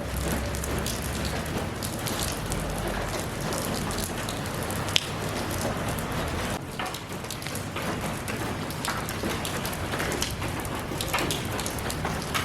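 Steady rain falling, a dense even hiss with scattered individual drops ticking on a surface, one sharper drop about five seconds in.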